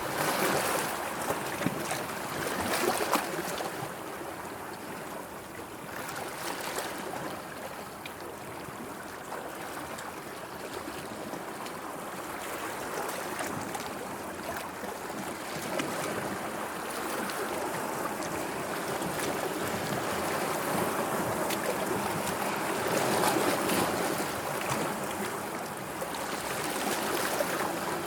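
Sea waves washing and splashing, swelling and easing, with louder surges near the start and near the end.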